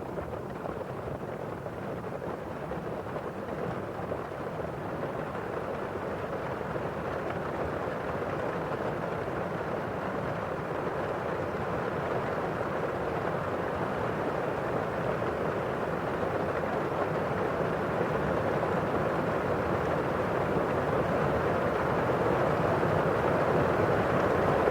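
Steady rain on a window pane and falling outside, a dense rushing noise that slowly grows louder.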